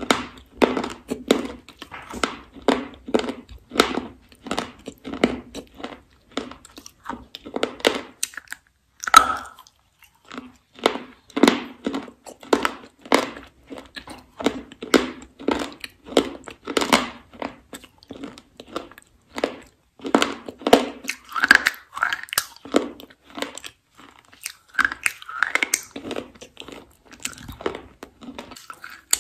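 Close-miked crunching and chewing as a person bites into and chews a brittle, pale pink layered block, about two crunches a second. Once or twice there is a brief pause, and a few short mouth sounds break in.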